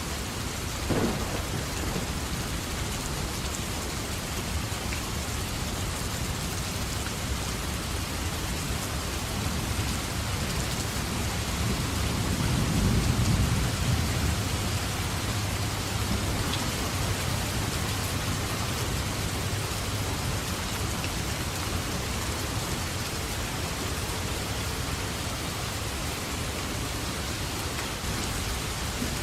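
Steady heavy rain with thunder: a brief sharp crack about a second in, and a low rumble of thunder swelling and fading around the middle.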